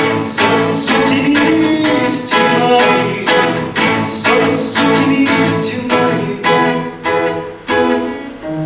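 Acoustic guitar strummed in a steady rhythm, about two strums a second, in an instrumental passage of a song; the strumming thins out near the end.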